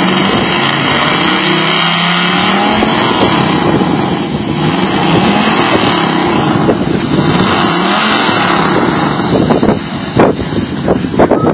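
Chevrolet Camaro engine revved hard again and again through its exhaust, the pitch climbing and falling with each blip of the throttle. Near the end come a few sharp cracks.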